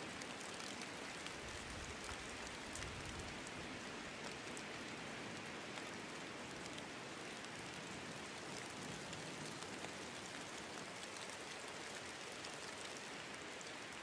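Steady, soft rain falling: an even hiss with fine pattering of drops.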